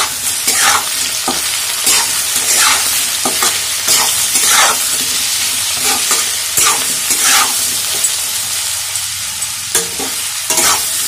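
Potato and poi sagh stem pieces sizzling in oil in a metal kadhai while being stirred with a metal spatula: a steady sizzle with a scrape of the spatula against the pan about once a second, with a short lull in the scraping near the end.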